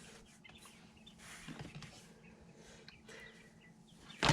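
Faint peeping of young brooder chicks with light rustling of handling, ending in a sudden loud flurry as a bird starts flapping its wings.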